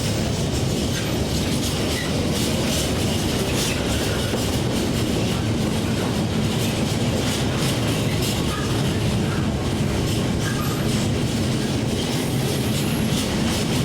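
Train running on the rails at close range: a steady rumble of wheels and running gear with scattered clicks from the wheels on the track.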